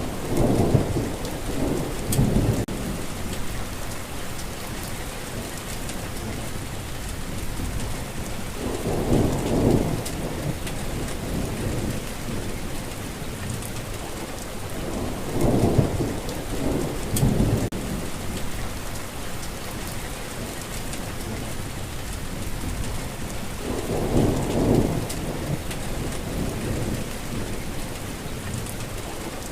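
Steady rain falling, with low thunder rumbling four times: near the start, about nine seconds in, around sixteen seconds in, and about twenty-four seconds in.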